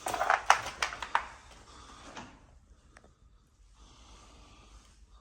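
A quick run of sharp clicks and knocks in the first second or so, two more single ticks a little later, then faint room hiss.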